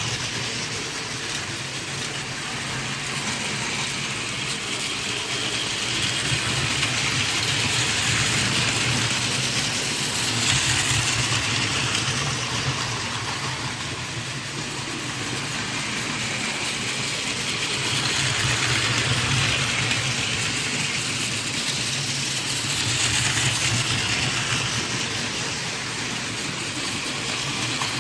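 Battery-powered Plarail toy Shinkansen running on its plastic track: a steady motor hum with wheel-on-rail rattle and hiss. It swells and fades slowly several times.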